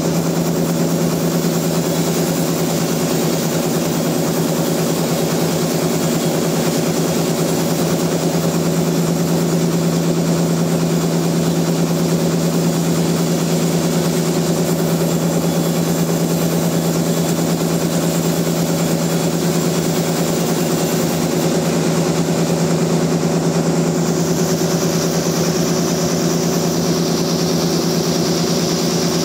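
Sawmill machinery running steadily: a constant, loud engine hum that does not change speed. A faint higher hiss joins about two-thirds of the way through.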